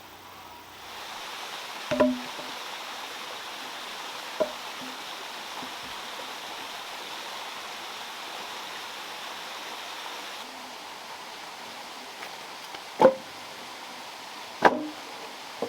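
Steady rush of flowing water, broken by a few sharp knocks: a loud one about two seconds in, a lighter one soon after, and two loud ones near the end.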